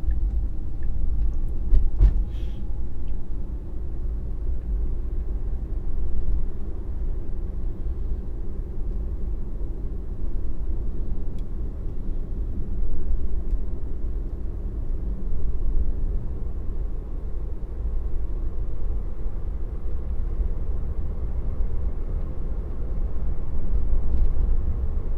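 Road and tyre noise inside a moving Tesla's cabin: a steady low rumble, with one sharp click about two seconds in.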